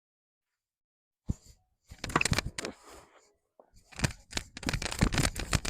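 Silence for about a second, then a clip-on microphone crackling and knocking as it rubs against the wearer's clothing while she runs during a tennis rally, a rapid, uneven run of scratchy thumps.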